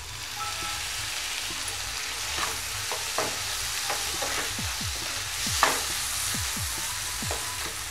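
Onion-tomato masala sizzling in a nonstick frying pan as lemon juice goes in, with a wooden spatula stirring and scraping through it in repeated quick strokes during the second half.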